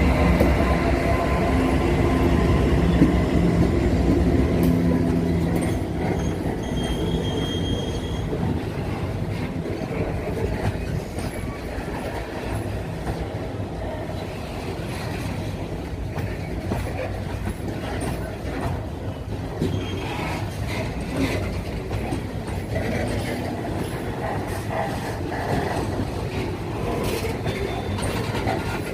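Freight train led by a GE AC44i diesel-electric locomotive going by. The locomotive's engine is loudest for the first few seconds, then the wagons roll past with steady wheel clatter over the rail joints and a few short wheel squeals.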